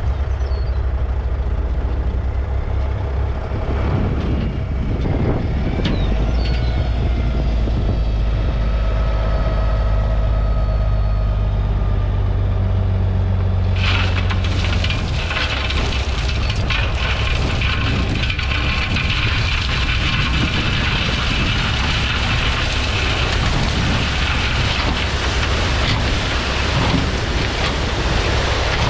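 Diesel dump truck engine running at raised revs; about 14 seconds in, a load of 3-inch rock starts sliding out of the raised bed with a continuous rushing, rattling rumble over the engine.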